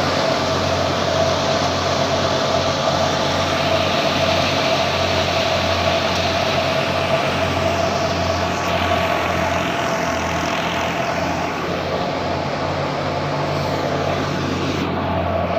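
Heavy farm-machine engine running steadily, a constant loud drone with an unchanging hum.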